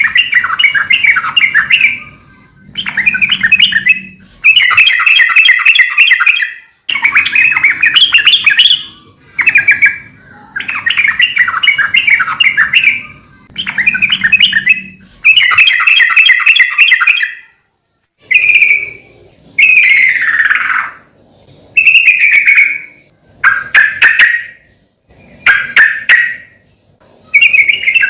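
Yellow-vented bulbul singing vigorously: a run of loud, bubbly chattering phrases, each a second or two long, separated by short pauses. In the second half the phrases are shorter, with quick sliding notes.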